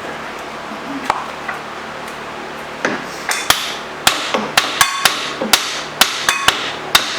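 Hammer blows on the rusted, seized tailstock of a Monarch 10EE lathe as it is driven loose: a couple of single knocks, then from about three seconds in a quick run of hard strikes, about three a second, each with a short metallic ring.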